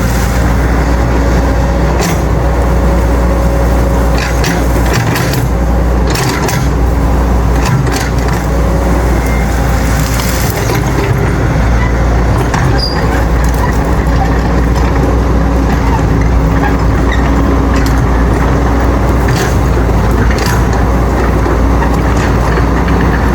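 Caterpillar excavator's diesel engine running steadily under load, with a few sharp cracks scattered through it.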